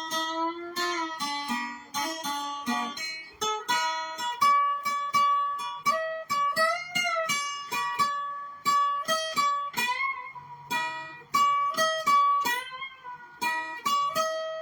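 Guitar playing an instrumental break in a song: a lead line of plucked single notes, with a bent note about seven seconds in.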